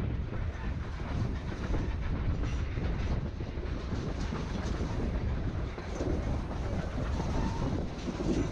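On board a narrow-gauge passenger train running over the rails: a steady low rumble with scattered wheel clicks.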